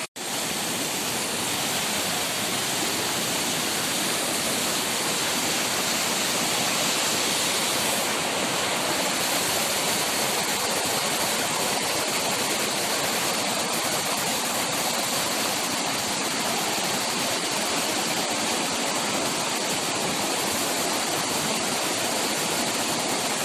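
Steady rushing water, a continuous even wash of noise like a forest stream, starting abruptly just after a brief dropout at the very start.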